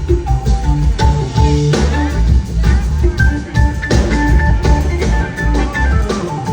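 Live rock band playing, with drum kit, guitar and organ, recorded from the audience.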